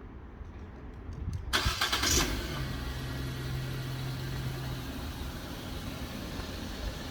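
Nissan Juke's engine cranking briefly and catching about a second and a half in, started by a remote engine start, then running at a steady idle. A few faint clicks come just before it cranks.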